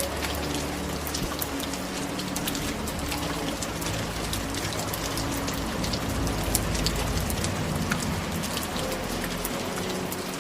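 Steady rain, a dense hiss filled with individual drops pattering, with a faint low steady rumble underneath.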